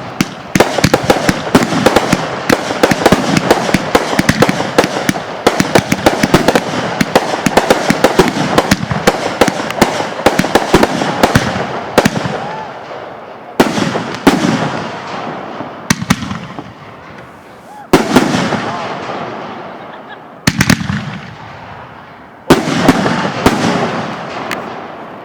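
Consumer fireworks going off: a rapid barrage of bangs and crackling for about the first half, then single loud reports every two seconds or so, each trailing off in crackle.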